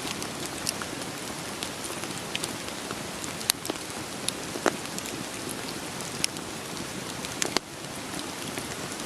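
Steady rain falling, with scattered sharp crackles and pops from burning firewood, a few of them louder than the rest.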